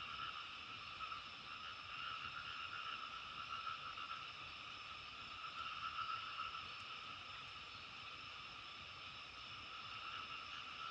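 A continuous chorus of many frogs calling together, an even, unbroken mass of calls with no single voice standing out.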